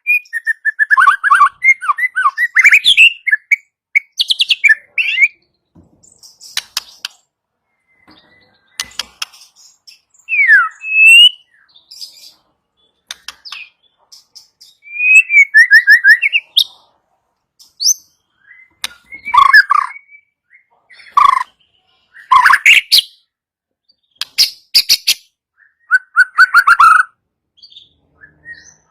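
White-rumped shama (murai batu) singing: loud, separate phrases of clear whistles, fast falling trills and sharp clicking rattles, with short pauses between them.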